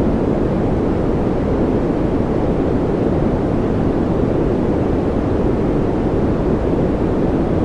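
Continuous noise track of the kind played for focus or sleep, steady and unchanging. It is weighted toward the low end, so it sounds like a deep rush rather than a bright hiss.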